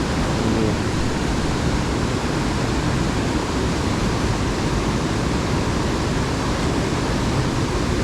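Steady rushing noise of high water flowing below a dam, loud and even, with no distinct events.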